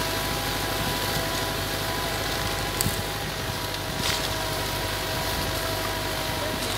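Massey Ferguson 385 tractor's diesel engine running steadily, with two light clicks about three and four seconds in.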